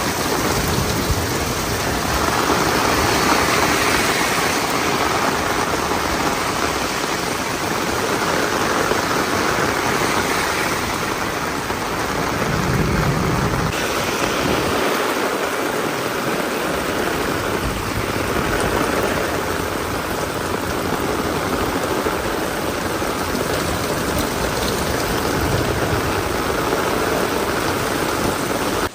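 Heavy rain falling steadily, a dense even hiss that swells and eases slightly, with a brief low rumble about halfway through.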